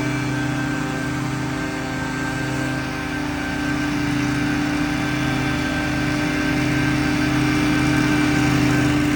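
Gas-powered leaf blowers running steadily, an engine hum with an even rush of air.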